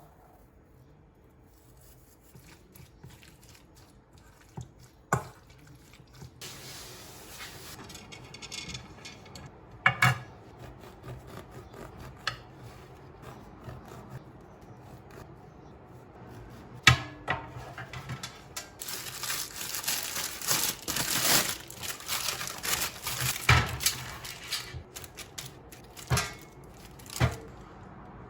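Kitchen handling sounds: dishes and utensils set down with several sharp clacks a few seconds apart, with stretches of rustling and scraping between them.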